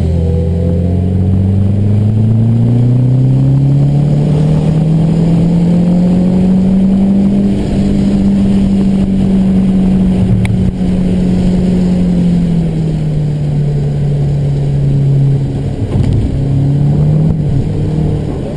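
MazdaSpeed3's turbocharged 2.3-litre four-cylinder engine, heard from inside the cabin under hard driving. The revs climb steadily for several seconds, hold high, then fall back about two-thirds of the way through, with a brief break in the engine note near the end.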